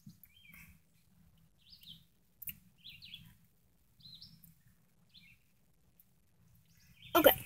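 A bird chirping in the background: short high chirps, one every half second to a second. Near the end comes a short, loud burst of noise.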